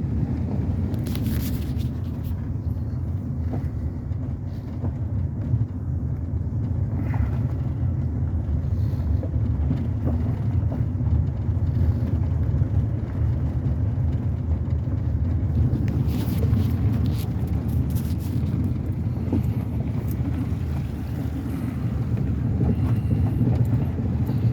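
Truck driving slowly along a dirt forest road, heard from inside the cab: a steady low rumble of engine and tyres, with a few brief knocks or rattles about a second in and again about two-thirds of the way through.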